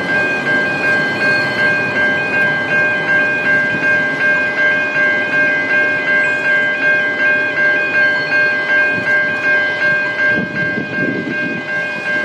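Level crossing bell ringing steadily at about two strokes a second, over the low rumble of the diesel-hauled train standing at the crossing.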